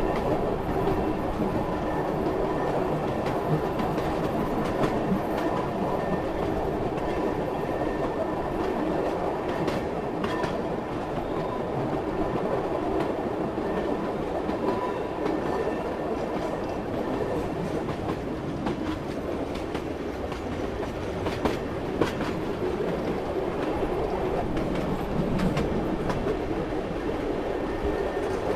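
Moving passenger train running along the track: a steady running noise with faint steady tones and scattered clicks of the wheels over rail joints, two sharper clicks close together about three quarters of the way through.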